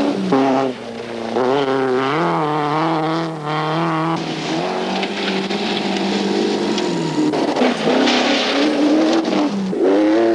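Rally car engine revving hard under acceleration, its pitch climbing, dropping at gear changes and climbing again several times, with a steadier stretch in the middle.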